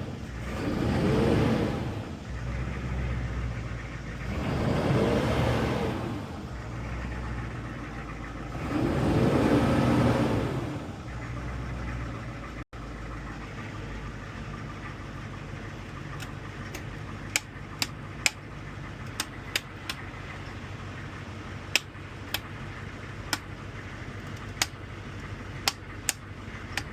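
6.5-litre turbo diesel V8 of a short bus revved three times, each rev rising and falling over a second or two, then settling to a steady idle. Scattered sharp clicks sound over the idle in the second half.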